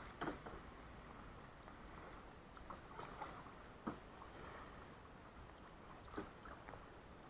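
Faint canoe paddle strokes in river water: three short splashes a couple of seconds apart over a low wash of water.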